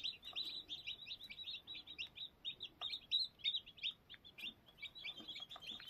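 A brood of about twenty newly hatched Aseel chicks peeping continuously: many short, high peeps overlapping one another.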